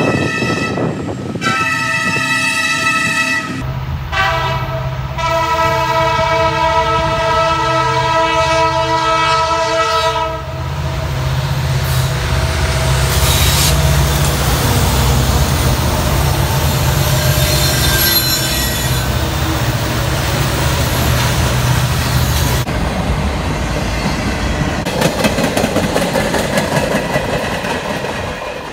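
A train horn sounds several blasts, the last held for about six seconds, as a diesel locomotive's low engine rumble comes up and passes. The train's cars then roll by with wheel clatter on the rails.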